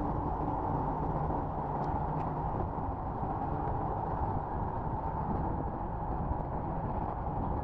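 Steady wind rush and road noise from riding a scooter, with no clear change.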